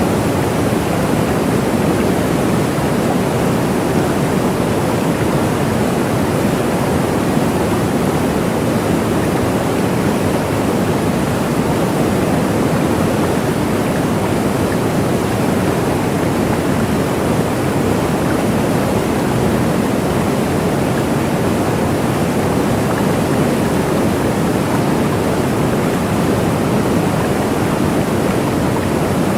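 Waterfall: a steady, unbroken rush of falling water, full and low, without any change.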